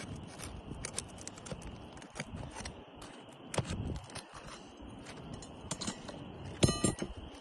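Hand tools scraping and clicking under a roof shingle as it is pried free and its nails are worked out, with one louder short metallic ring near the end.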